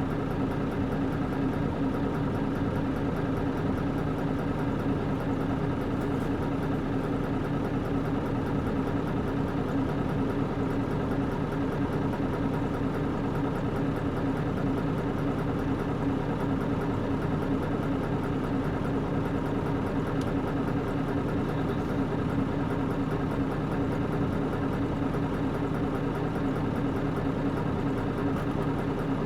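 Nissan Diesel KC-UA460LSN city bus's PG6 diesel engine heard from inside the cabin, running steadily at one unchanging pitch with no gear changes.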